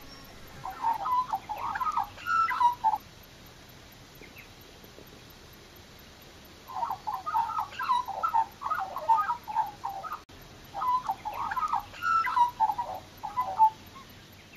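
Birds calling in short chattering runs. A spell of calls comes near the start, then a lull of a few seconds, then a busier stretch of calls to the end.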